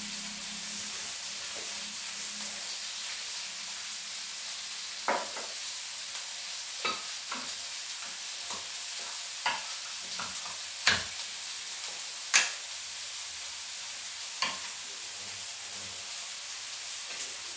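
Fried tofu and sliced onion frying in oil in a steel wok, with a steady sizzle and a scattering of sharp clicks through the middle, the loudest about twelve seconds in.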